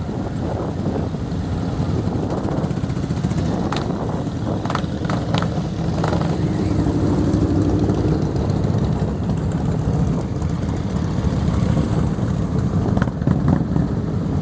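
Several motorcycle engines running at idle together, a steady dense engine noise with a few short sharp sounds about four to six seconds in.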